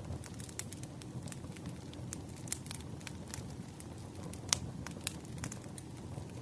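Wood fire burning: irregular sharp crackles and pops over a low steady rumble, with one louder pop about halfway through.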